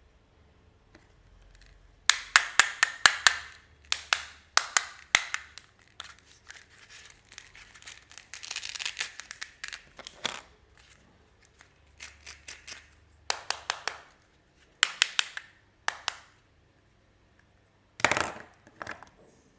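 Scissors snipping through plastic packaging in quick runs of sharp clicks, with wrapper crinkling in between.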